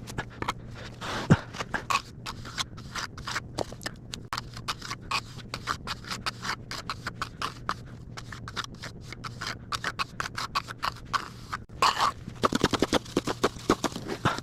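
Trowel working wet cement mortar: a run of short scrapes and slaps, several a second, coming thickest about twelve seconds in.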